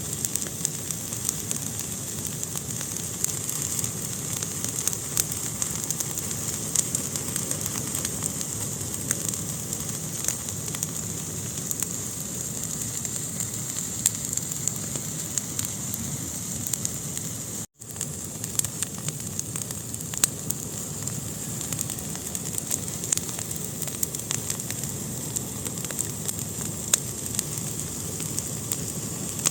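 Fire burning in a fireplace: a steady hiss with frequent sharp crackles and pops, broken by a split-second gap in the sound a little over halfway through.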